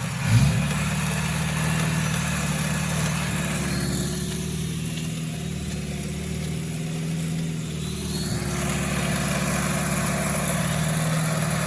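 Off-road 4x4's engine running at low, steady revs, with a quick, loud rev about half a second in.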